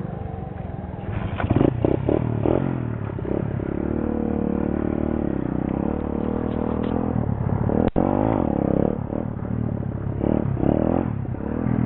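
A pit bike's small single-cylinder engine revving: a few quick blips, then held at a steady speed for a few seconds, then rising and falling again near the end.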